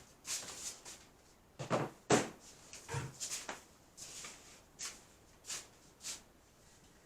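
Hands handling mealworm containers: a series of short rustles and scrapes, with two soft knocks about two and three seconds in.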